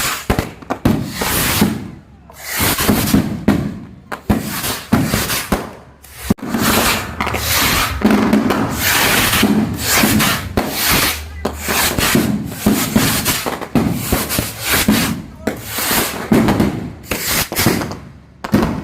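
Fireworks going off in a rapid, irregular run of crackling, hissing bursts, with brief gaps between them.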